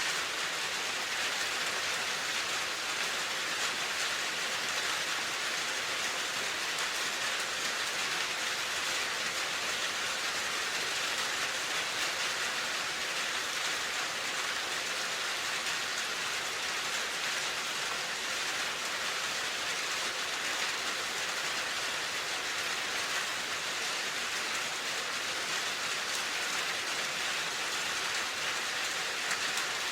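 Steady rain falling, an even hiss of many drops on a surface with no pauses or single sounds standing out.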